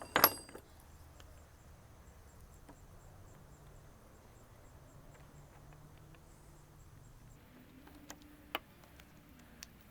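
A sharp clink as small faucet repair kit parts are handled, then quiet room tone with a few faint clicks near the end.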